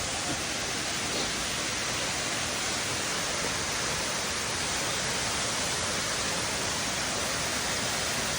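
Waterfall crashing steadily: a constant, even rush of falling water.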